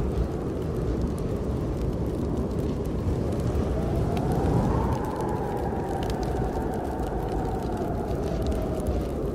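Snowstorm wind blowing steadily, with a faint whistling howl that rises about four seconds in and slowly sinks away near the end, and scattered small crackles from a wood fire.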